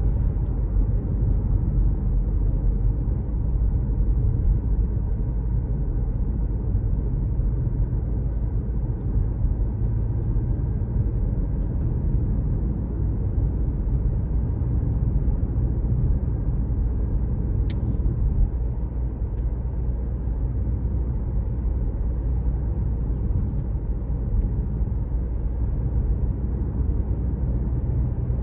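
Car driving along a road: a steady low rumble of engine and tyre noise, with a single sharp click about two-thirds of the way through.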